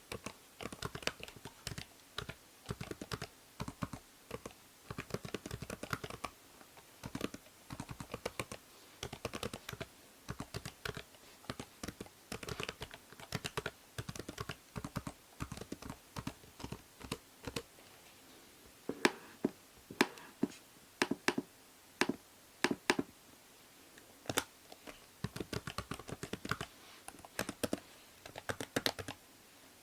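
Typing on a computer keyboard: a continuous patter of key clicks, with a run of louder, more separate keystrokes about two-thirds of the way through. A faint steady hiss from the binaural microphone sits underneath.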